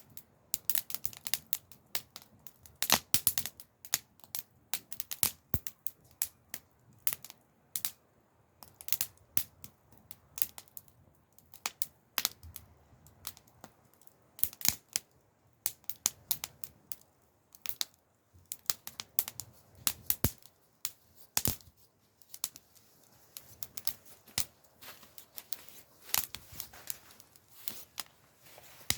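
Campfire crackling: an irregular run of sharp pops and snaps from the burning wood, some much louder than the rest.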